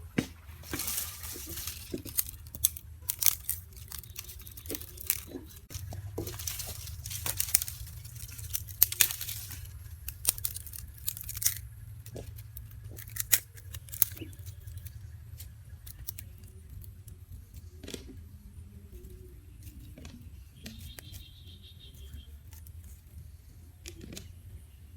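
Rustling and tearing noises in two short spells, with scattered sharp clicks and knocks, over a low steady hum.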